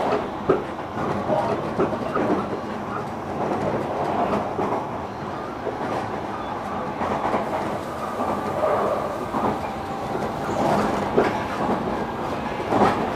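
JR Kyushu 305 series electric train heard from inside the car while running: steady rolling noise with a few sharp clicks of the wheels over rail joints.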